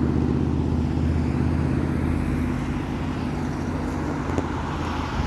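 Double-decker bus's diesel engine running close by, a steady low drone that slowly fades as the bus moves off.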